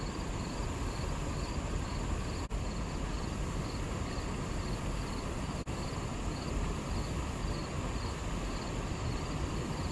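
Outdoor summer ambience: insects chirping in a high, even pulse about twice a second over a steady rushing noise.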